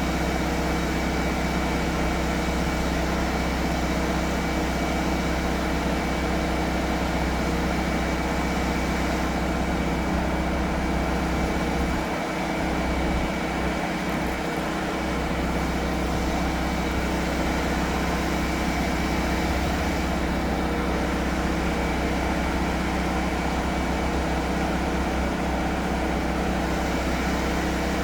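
Drain jetter's engine and pump running steadily under load.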